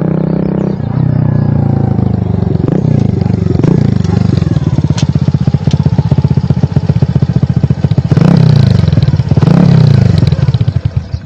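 Super Cub's single-cylinder four-stroke Lifan 125 engine running through a cheap stainless Honda Monkey aftermarket muffler while being ridden. The revs rise and fall several times, with a choppy exhaust burble at lower revs in between.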